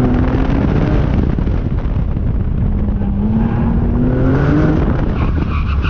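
Porsche 996 Turbo's twin-turbo flat-six pulling hard under acceleration, its note rising in pitch twice, over a heavy rumble of road and wind noise in the open-windowed cabin. Tyres squeal briefly near the end.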